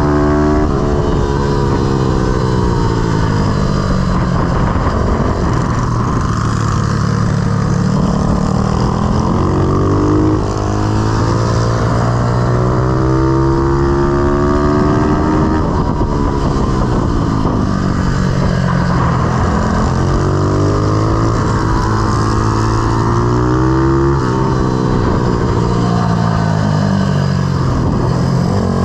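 Pit bike's YX160 single-cylinder four-stroke engine running hard, its pitch rising and falling over and over as the bike accelerates and backs off.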